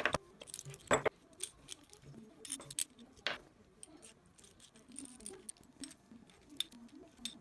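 Scattered sharp clicks and light metallic clinks of hand tools and metal parts being handled, irregularly spaced, the loudest about a second in and again a little after three seconds.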